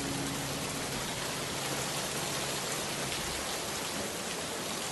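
Steady rain falling, a recorded rain sound effect, an even hiss with a patter of drops.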